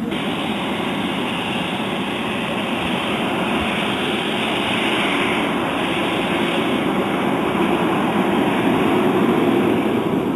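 Engines of a large radio-controlled Airbus A380 model aircraft running steadily, growing louder toward the end.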